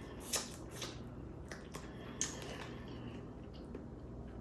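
Close-up eating sounds of a person eating seasoned crab: faint chewing with a few short sharp clicks, the loudest near the start and about two seconds in.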